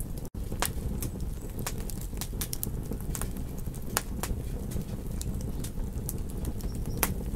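Campfire crackling: irregular sharp pops and snaps over a low, steady noise of burning wood. The sound cuts out for an instant just after the start.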